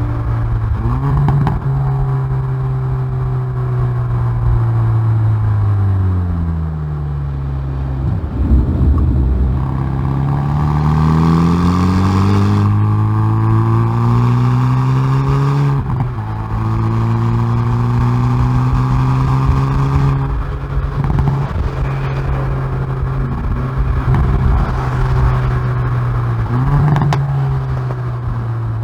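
Exhaust of a Hyundai i30N Performance's turbocharged 2.0-litre four-cylinder under hard track driving. The engine note climbs in pitch as it accelerates, drops abruptly at gear changes with a sharp click at some of them, and sinks for a moment when the car slows.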